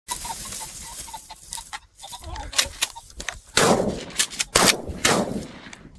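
Gunshots, several in quick succession, the loudest three in the last two and a half seconds, each trailing off in an echo.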